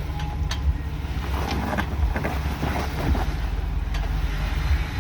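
Jeep engine running at low speed while crawling over rocks, a steady low rumble with a few short knocks.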